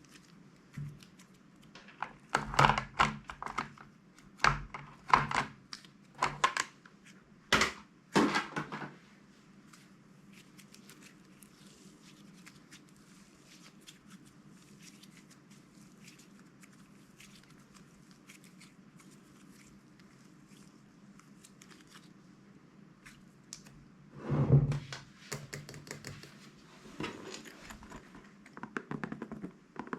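Handling of slime-making materials: clusters of sharp crackles and clicks for several seconds, a quieter stretch of about fifteen seconds, then more crackling near the end.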